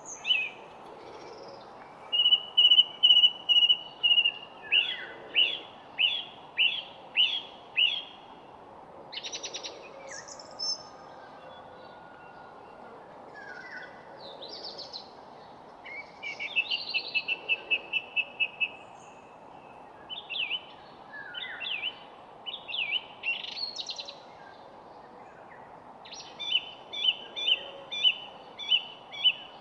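Songbirds singing: phrases of quick repeated notes and trills, one held trill near the start, set apart by short pauses, over a steady background hiss.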